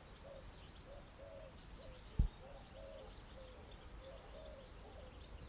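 Birds calling: a run of short, low notes repeating about twice a second, with faint high chirps above, and a brief thump about two seconds in.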